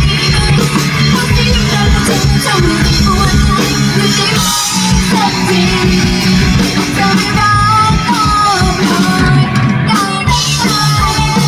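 Rock band playing live on stage, a woman singing over electric guitar.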